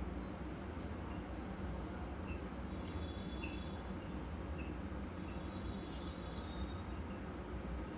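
Steady low background hum with faint high chirps of small birds, two or three short chirps a second.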